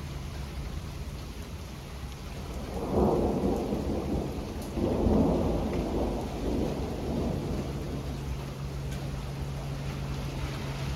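Steady rain with a roll of thunder about three seconds in that swells twice and dies away over several seconds.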